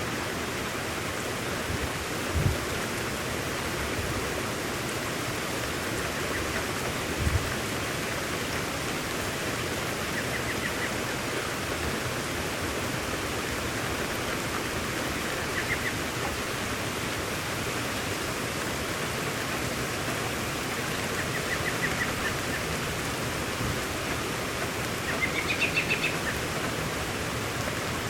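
Steady hiss of heavy rain falling. A bird gives a few short chirping trills through it, the last one near the end rising, and there are two brief dull thumps in the first few seconds.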